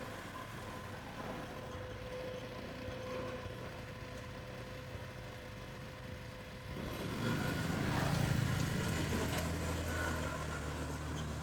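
A motor vehicle's engine comes up about seven seconds in and keeps running steadily over a low background hum.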